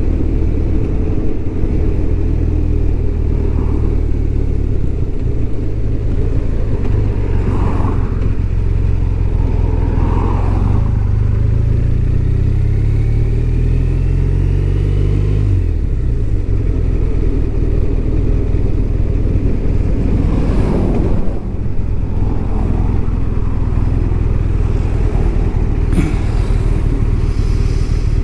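BMW R1200RT's boxer-twin engine running on the move. Partway through, it pulls up through the revs for several seconds, then drops sharply at a gear change.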